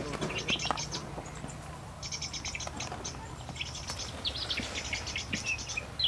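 Birds chirping in several short runs of quick, high-pitched notes, over a faint steady low hum.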